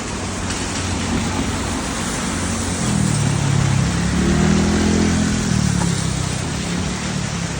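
Steady hiss of heavy rain, with a motor vehicle engine passing through the middle; its pitch rises and then falls as it goes by.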